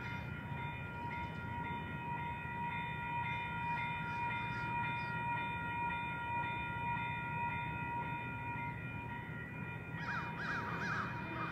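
Double-stack intermodal freight train rolling past: a steady low rumble with a steady high whine of several tones over it. Birds chirp briefly near the end.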